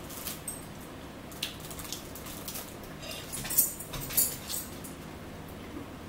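Close-up eating sounds: chewing and lip smacks heard as a scatter of short, sharp smacks and clicks, the loudest a little over halfway through.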